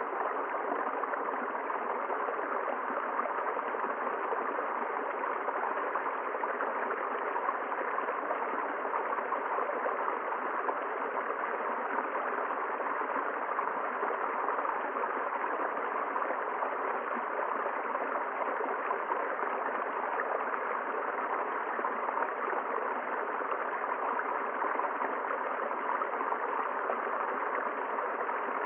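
A river flowing: a steady, unbroken sound of running water.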